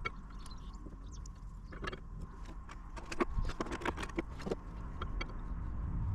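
Light metallic clinks and knocks, scattered and densest about three to four and a half seconds in, as brake pads and tools are handled at a disc brake caliper being put back together.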